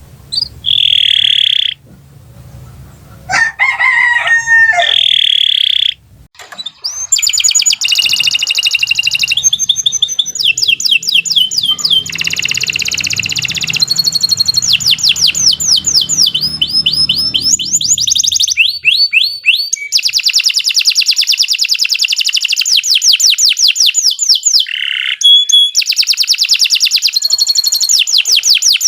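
Domestic canary singing a long song of rapid trills and rolls, the notes repeated many times a second, starting about seven seconds in. Before that come a few short held tones and a wavering call.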